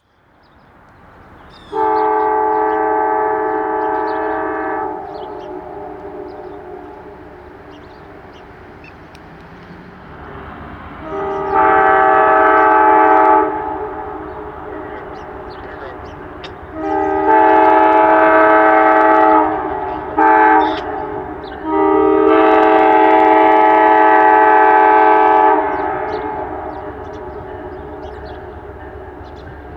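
Locomotive multi-chime air horn blowing five blasts: one long blast, then long, long, short, long, the standard grade-crossing warning. A steady rumble of the approaching train runs under and between the blasts.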